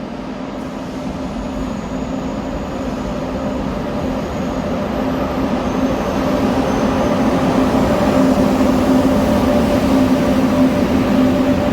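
High-speed train approaching along the platform, its running noise growing steadily louder, with a steady electric hum under the rush of the wheels.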